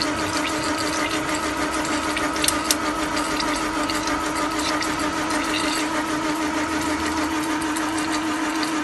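Newly rebuilt Land Rover 2.25 petrol engine being turned over to prime its oil system: a steady mechanical whirring drone at an even pitch, with a couple of light clicks between two and three seconds in. Oil pressure is up, with oil reaching the tappets.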